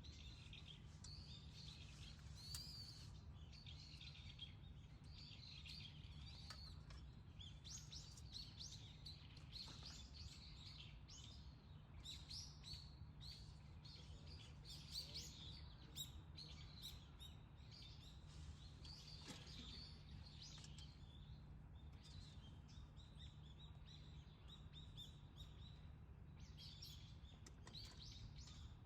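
Small songbirds chirping and calling faintly, many short notes overlapping throughout, over a low steady hum.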